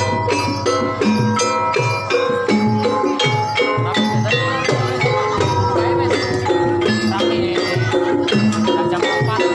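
Javanese gamelan-style ensemble playing Banyumasan music for a hobby-horse trance dance: struck tuned metallophones and gongs with drum, repeating a melody over a steady beat of about two strokes a second.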